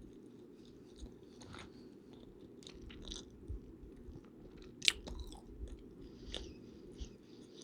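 A person chewing and biting food close to the microphone, with scattered wet mouth clicks and crunches and one sharp loud click about five seconds in, over a steady low background hiss.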